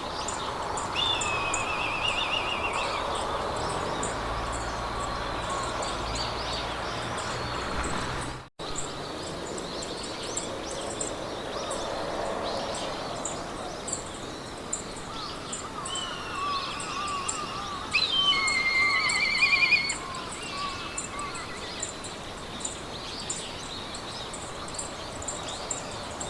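Meadow ambience: songbirds sing trilled phrases over a steady, high insect chirping of a few chirps a second and a soft background hiss. The birdsong is loudest about eighteen to twenty seconds in, and all sound drops out for an instant about eight seconds in.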